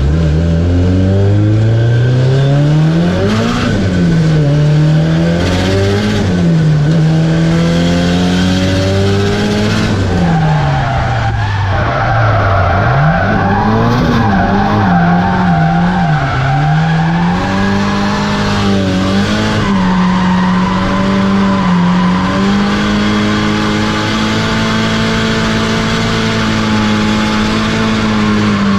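Nissan 180SX drift car's turbocharged SR20DET four-cylinder engine rising and falling in revs several times, then held at steady high revs through the second half. Tyres skid and squeal underneath as the car drifts.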